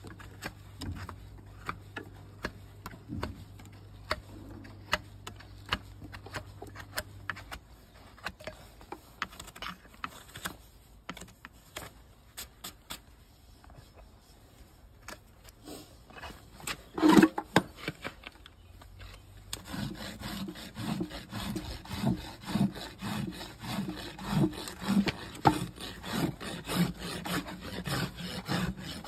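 Trimming of a Shire horse's hoof: scattered short scrapes and clicks of the hoof being cut, a louder knock near the middle, then a farrier's rasp filing the hoof in steady back-and-forth strokes, about one and a half a second.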